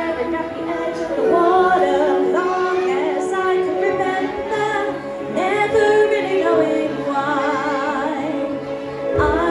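Female vocalist singing live over a pop backing track, with long held notes that waver in vibrato.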